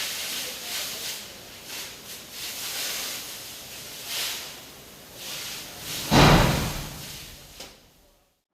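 A loud slam about six seconds in, with a short ringing tail, over a hissing noise that swells and fades; the sound dies away just before the end.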